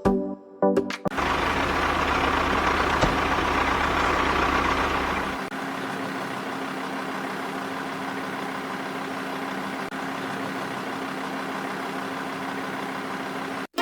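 An engine running steadily, with a low rumble and a steady hum, louder for the first few seconds and then dropping a little about five seconds in.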